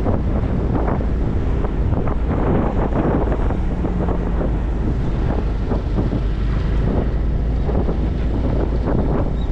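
Wind buffeting the microphone of a riding motorcycle, over the steady low drone of its engine and road noise.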